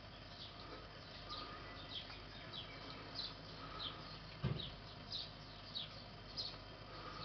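Faint, repeated short high chirps from a bird, each note falling in pitch, coming about every half second to a second. A dull knock sounds once, about four and a half seconds in.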